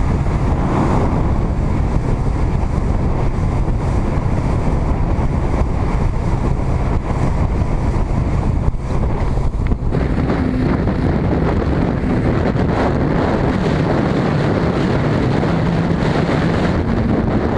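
Motorboat under way: engine running steadily, with wind buffeting the microphone and water rushing against the hull on choppy water.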